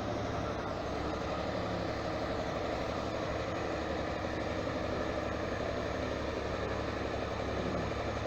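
Heavy truck engine running steadily at an even speed, without revving.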